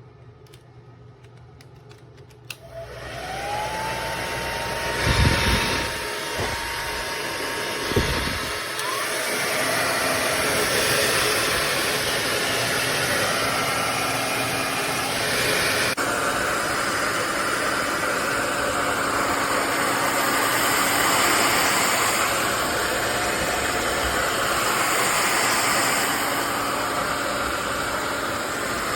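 Ionic hair dryer switched on about two and a half seconds in: its motor whine rises and settles into a steady tone under a loud, steady rush of blown air. Two low thumps of air buffeting the microphone come a few seconds after it starts.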